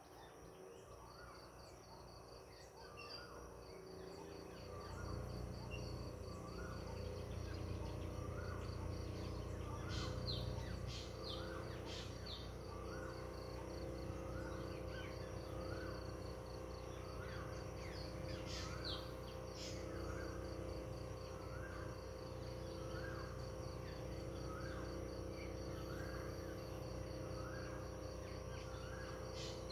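Countryside ambience: a steady, pulsing high insect trill like a cricket's, a short call repeated about once a second, and a few sharp bird chirps. A low rumble builds under it from about five seconds in.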